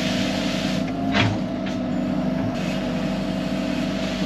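Excavator's diesel engine running steadily as the machine begins digging, with a constant whine over it. A brief, sharp, loud noise comes about a second in, and a shorter one follows soon after.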